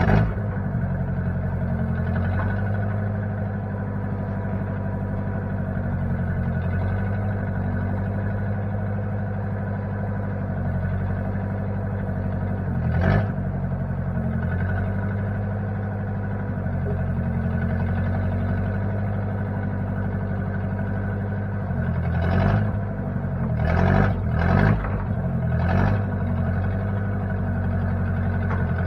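1960 Case 540 backhoe engine running steadily at a low speed, with a sharp clank about thirteen seconds in and a cluster of clanks and knocks between twenty-two and twenty-six seconds in.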